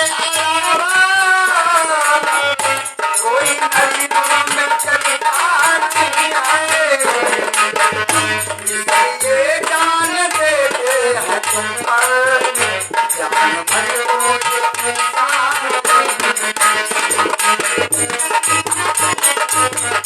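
Instrumental interlude of a Hindi ghazal: a melody instrument plays a winding, gliding tune over a steady shaker-like rattle and repeated low hand-drum beats.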